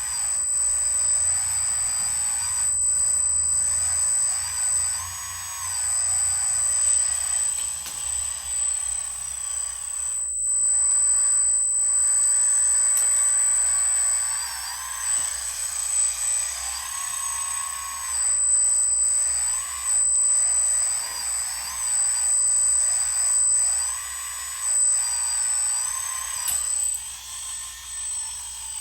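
Small electric motors and hydraulic pump of radio-controlled construction machinery whining as the controls are worked. The pitch rises and falls in short steps over a steady high-pitched whine, with a low hum in the first several seconds.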